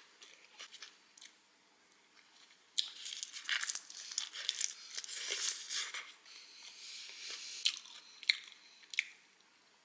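Close-up chewing of a crisp roasted seaweed (nori) wrap: quiet at first, then a stretch of crisp crunching about three seconds in that lasts roughly three seconds, followed by a few sharp separate clicks near the end.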